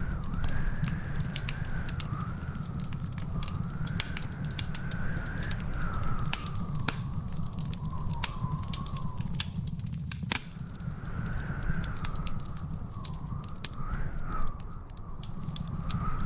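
Wood fire crackling, with many small sharp pops over a steady low rumble; one pop near the end stands out louder. A thin whistle wavers up and down behind it.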